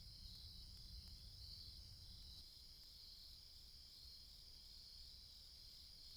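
Crickets chirping faintly and steadily in a fast, even pulse, with a low rumble in the first couple of seconds that then fades.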